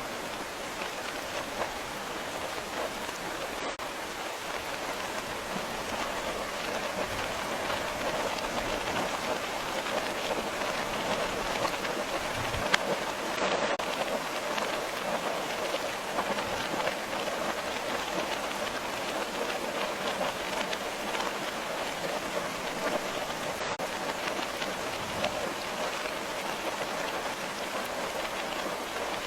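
Steady rain falling: an even hiss of dense patter, with one slightly louder single tap about halfway through.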